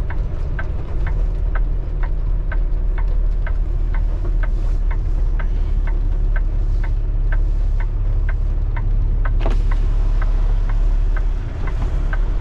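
Semi-truck engine running low and steady, heard inside the cab, with the turn signal clicking about three times a second for a right turn. A brief rising squeal comes about nine seconds in.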